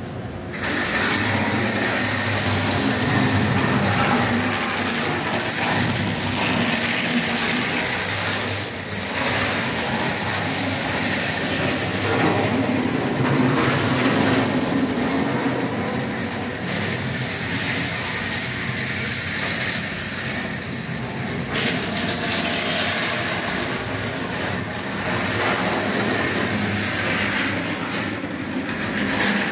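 Train running on rails: a steady rolling rail noise with a constant high whine, starting abruptly about half a second in.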